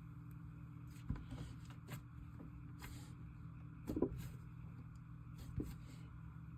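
Faint steady electrical hum with a few soft taps and clicks on top, the loudest a little after the middle.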